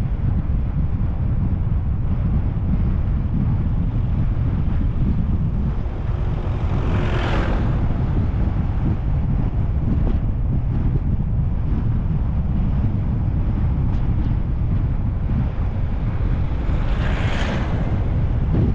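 Car driving, its road and engine rumble mixed with wind buffeting the microphone. Two brief whooshes swell and fade, one about seven seconds in and one near the end.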